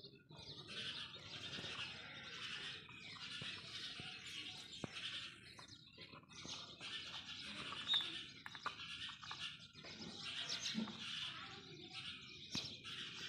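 Small birds chirping and chattering without a break, many short calls overlapping, with one sharper sound about eight seconds in.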